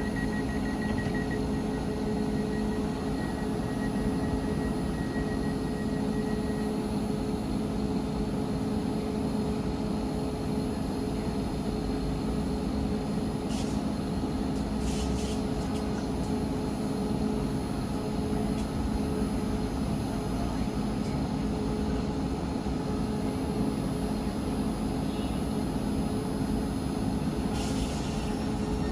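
A train's engine and equipment running steadily with a constant low hum, broken by a few short hisses about halfway through and again near the end.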